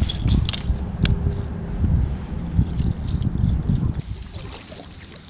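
Low rumbling handling noise with irregular knocks and light rattling clicks, fading quieter after about four seconds.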